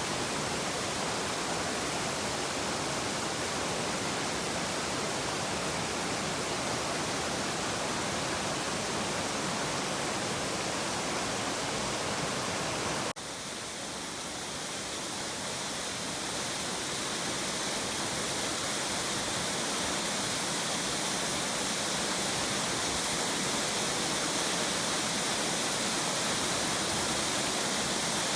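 Waterfall rushing with a steady, even roar of falling water. About halfway through the sound changes abruptly to a thinner, hissier version of the same noise.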